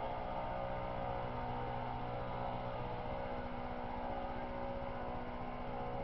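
A steady mechanical hum: a low drone with several held tones that stay unchanged throughout.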